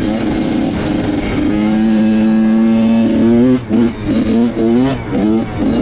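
Dirt bike engine running at a steady pitch, then from about halfway revving up and down several times in quick succession with brief drops in loudness.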